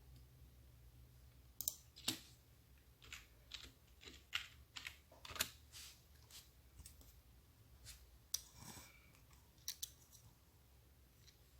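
Typing on a computer keyboard: faint, irregular key clicks in short runs with pauses between them, over a steady low hum.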